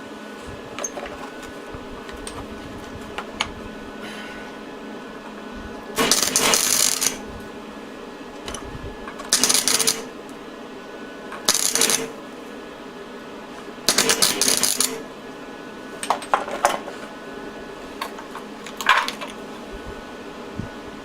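Welder laying short tack welds on an e-bike hub motor's clutch, fixing it to the motor shaft: about six bursts of crackling arc noise, each up to about a second long, over a steady hum.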